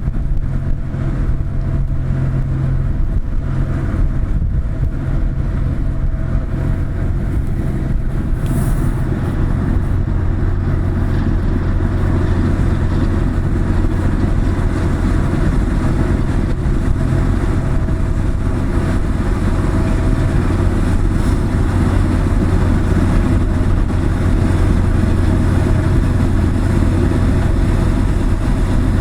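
A car ferry's diesel engines droning steadily as the ship gets under way, a constant low hum with no break.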